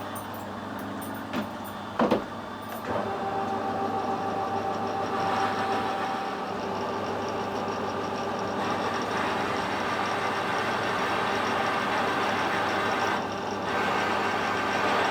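Metal lathe running with a parting tool cutting into the soft shank of a broken drill bit. Two short knocks come in the first two seconds, then a steady cutting noise sets in over the motor hum, with a brief thin tone a few seconds later.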